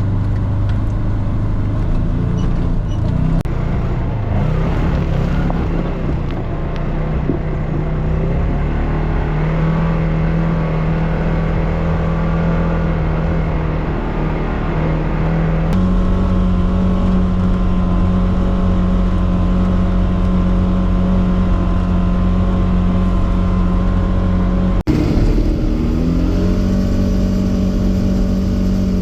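Polaris Xpedition four-seat side-by-side's engine running under way on a trail, a steady drone that shifts to a higher, steadier note about halfway through. Near the end the sound drops out for an instant, then the engine note climbs back up.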